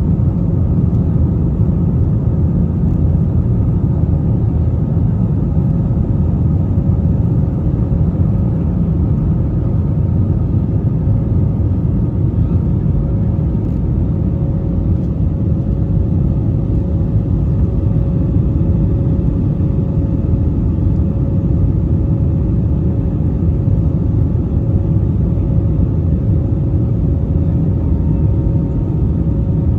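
Airbus A320-family airliner heard from inside the cabin: a loud, steady rumble of the jet engines and airflow, with a thin steady hum on top.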